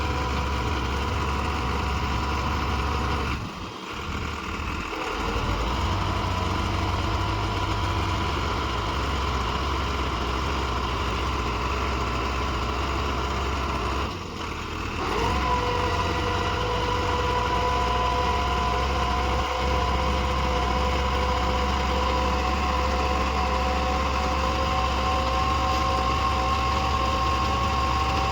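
New Holland 45 HP tractor's diesel engine running steadily, driving a mounted hydraulic earth auger. The sound dips briefly twice, and from about halfway a whine sets in and creeps slowly higher in pitch.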